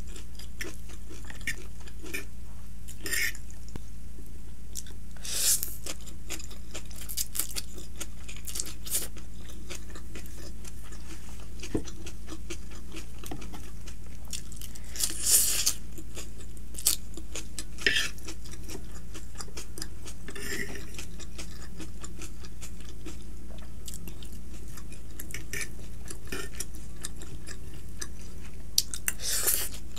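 Close-miked eating: chewing of stir-fried chowmein noodles and vegetables, with short crunches and fork clicks and scrapes against a wooden serving board, over a steady low hum. The loudest crunch comes about halfway through, as a lettuce leaf is bitten.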